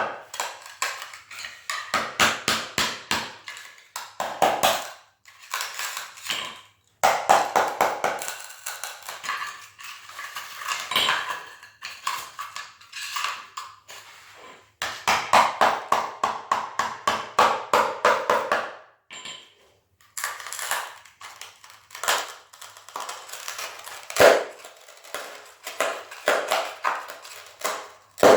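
Broken ceramic floor tile being chipped and prised up with a hand tool: runs of rapid clinking and scraping from the tool and the loose shards, broken by short pauses, with one sharper knock near the end.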